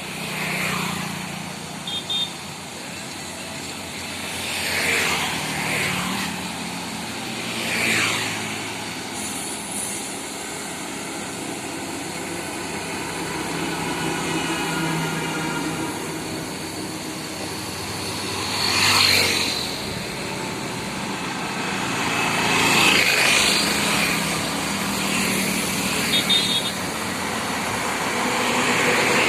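Road traffic of trucks and cars going by, with a steady engine hum and several vehicles passing one after another, each swelling and fading. There are a couple of short horn beeps, one early and one near the end.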